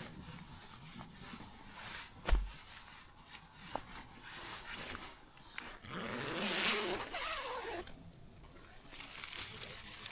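A sharp knock a couple of seconds in, then a dog's whining cry for about two seconds near the middle, over low rustling.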